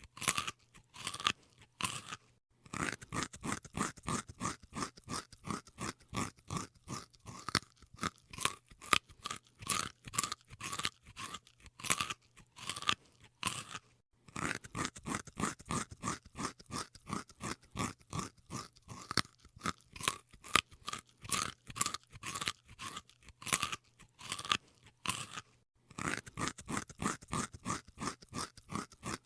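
An animal chewing crunchy food: a steady run of crisp crunches, several a second, pausing briefly three times.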